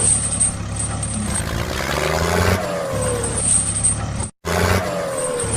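Truck engine sound effect looped over and over: a steady low rumble with a short falling tone every few seconds, and a brief abrupt dropout about four seconds in where the loop restarts.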